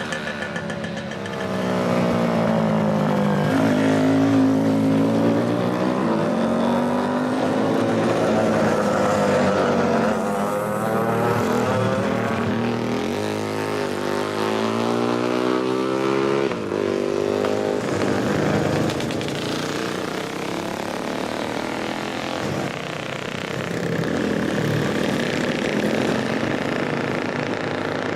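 Several pre-1980 motorcycle engines running, their pitch rising and falling as they rev and ride past, with more than one engine heard at once.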